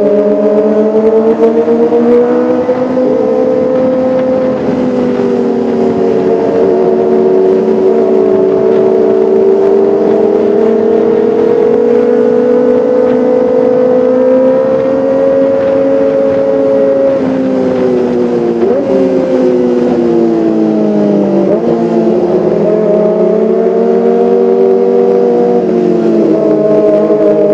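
Kawasaki ZX-25R's 250 cc inline-four engine running at high revs, a steady high-pitched whine that slowly rises and falls, with a few sudden dips in pitch in the second half.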